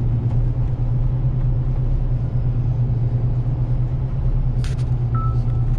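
Concrete truck's diesel engine running steadily while driving, a constant low drone heard from inside the cab. A brief click comes about three-quarters of the way through.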